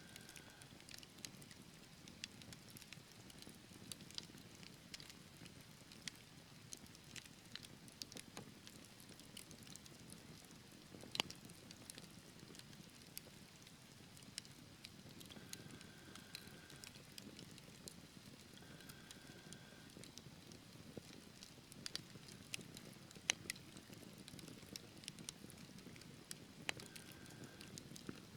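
Wood fire burning in a fireplace: quiet, steady low rushing of the flames with frequent small crackles and snaps, two sharper pops about a third and four-fifths of the way through. A few faint brief whistles come and go.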